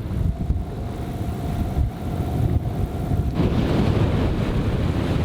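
Strong wind, about 25 knots, buffeting the microphone with a heavy rumble, and a faint steady whistle for the first three seconds. A little past three seconds in, the sound jumps to a louder rushing hiss.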